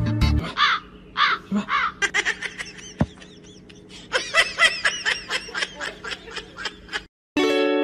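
A person off camera laughing in a long string of short, high-pitched giggles, with a single sharp click about three seconds in. A musical chime starts near the end.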